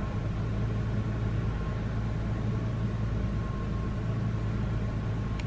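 Steady car cabin noise: a low, even engine hum with a faint steady tone above it, heard from inside the car.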